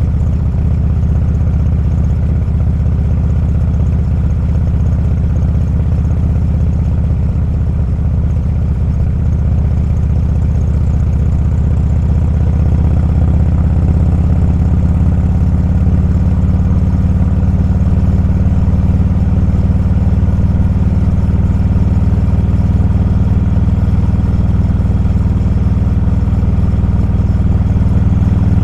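Motorcycle engine running steadily with a low, even hum that steps up slightly in pitch and gets a little louder about halfway through.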